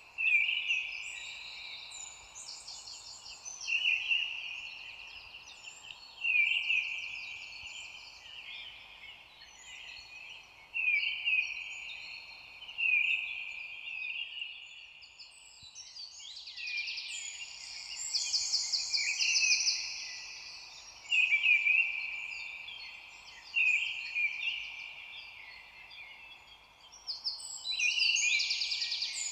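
Several songbirds singing, short trilled phrases repeating every two or three seconds and overlapping one another, over a faint steady background hiss.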